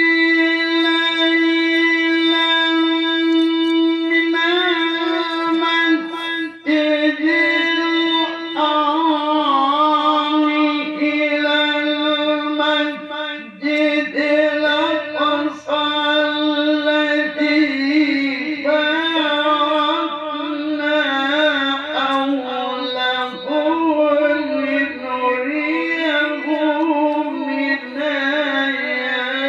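A man's voice reciting the Quran in melodic tilawah style, with no instruments. It holds one long note for about four seconds, then moves through a long stretch of ornamented, wavering melismatic turns on a drawn-out phrase.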